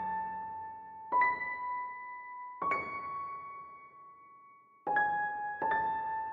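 Background music: slow solo piano or electric piano, single notes struck a second or more apart and left to ring out.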